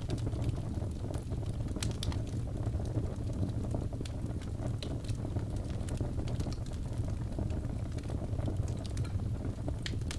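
Wood fire crackling: irregular sharp pops and snaps over a steady low roar.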